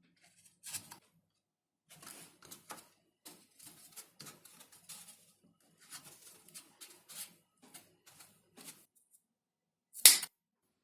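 Hand work on a foam model: a string of short scratches, clicks and light knocks, then one loud sharp snap about ten seconds in.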